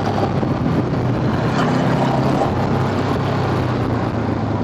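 Motor scooter engine running at a steady pace while riding, with wind rushing over the microphone.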